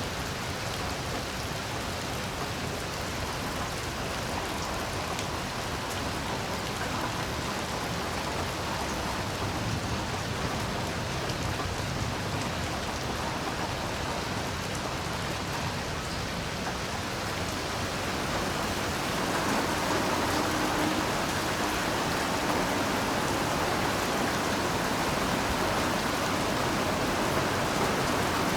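Heavy rain falling steadily as a dense, even hiss, growing louder about two-thirds of the way through.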